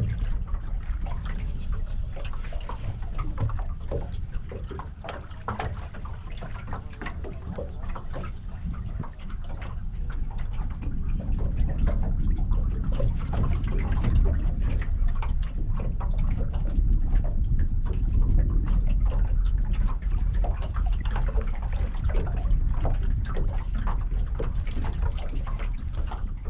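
Water lapping and trickling against a small boat's hull, in many small irregular splashes, over a low rumble of wind on the microphone.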